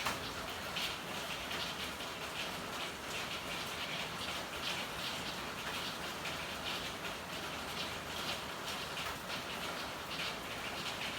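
Steady rain falling, with many drops striking close by in quick, irregular succession over a constant hiss.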